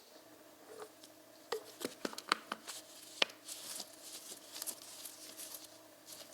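Light handling noises: a quick run of sharp clicks and taps, then a scratchy rustling, over a faint steady hum.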